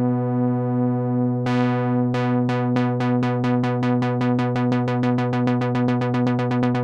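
Sequential analog synthesizer holding a steady low note. About a second and a half in, bright plucky re-attacks start over it and repeat faster and faster.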